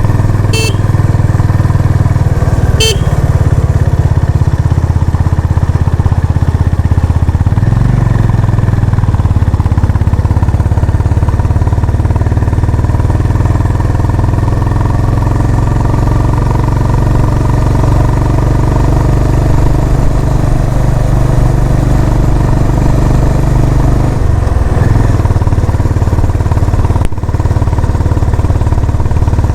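Honda CB350 RS's single-cylinder engine running steadily under way, its note shifting around eight seconds in and again near twenty-five seconds. Two short, sharp sounds come in the first three seconds.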